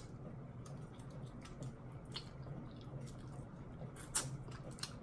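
A person chewing soft shrimp and grits and licking her fingers: faint, wet smacking mouth sounds with a few soft clicks, a little louder about four seconds in.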